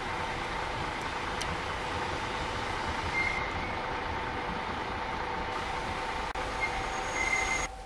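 Passenger train pulling slowly into a station platform: a steady rumble with a constant hum, and a short high squeal about three seconds in and again near the end. The sound cuts off suddenly just before the end.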